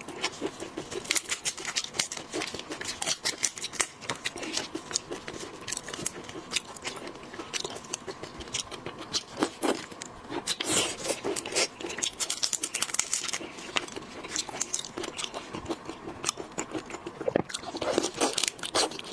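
Shells of boiled seafood being cracked, torn and peeled by hand, with chewing and biting: a dense run of irregular sharp cracks and crackles.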